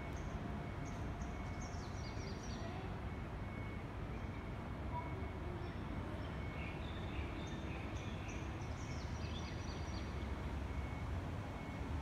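Outdoor background of a steady low rumble, with a small bird giving short high chirping phrases twice: near the start and again about seven seconds in.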